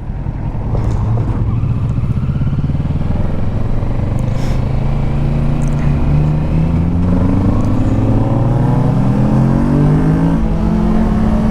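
Kawasaki Ninja 650's parallel-twin engine running under way, its pitch climbing gradually over several seconds as the bike speeds up, then holding steady near the end.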